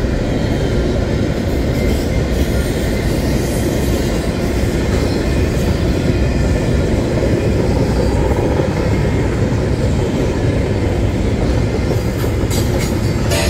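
Freight train rolling past, a steady noise of steel wheels on rail joints.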